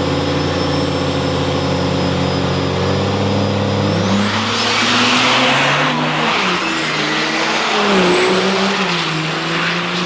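A turbo-diesel drag truck's engine runs steadily, then about four seconds in accelerates hard. A high turbo whistle rises sharply, and the engine pitch climbs and drops several times as it pulls away.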